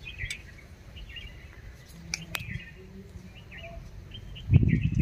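Small birds chirping in short, scattered calls over a low background rumble, with a louder low rumble of handling or wind near the end.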